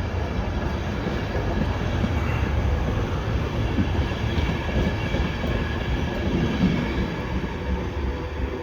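A six-carriage passenger train rolling past along the platform: a steady rumble of wheels on the rails that begins to fade near the end.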